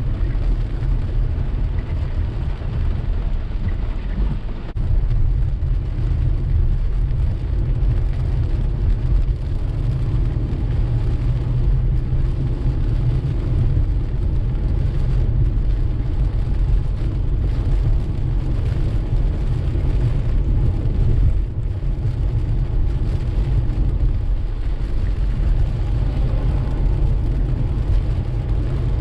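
Steady low road rumble of a car driving through steady rain, with a fainter hiss of rain and wet road.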